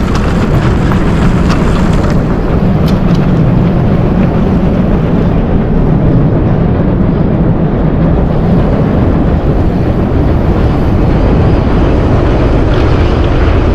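Steady loud rush of wind on the microphone and knobby tyres rolling over a dirt trail as a Giant Trance X mountain bike descends, with a few faint clicks and rattles from the bike in the first few seconds.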